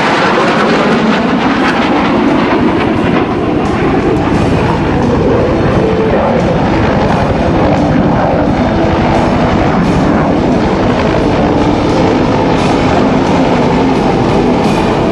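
Military helicopters flying low overhead, their rotor blades beating steadily over the noise of turbine engines.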